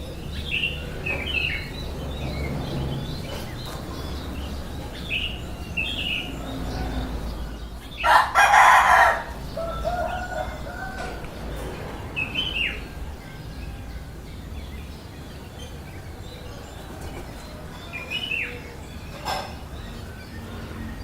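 Baby birds chirping: short, high, falling chirps, often in quick pairs, every few seconds over a steady low rumble. About eight seconds in, a loud burst lasting about a second stands out above them.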